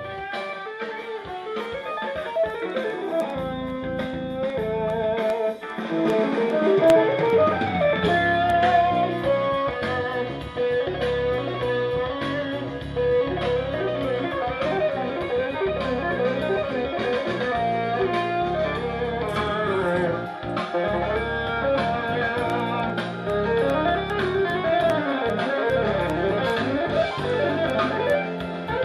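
Recorded guitar-led music, an MP3 from a phone played through a valve preamp's auxiliary input and heard through the amplifier's speaker. A fuller low end comes in a few seconds in.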